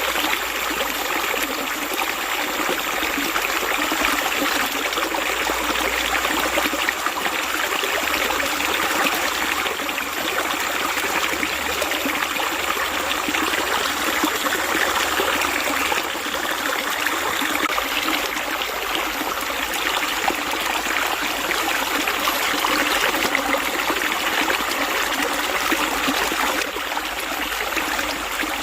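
Running water flowing steadily, a continuous babbling like a small stream.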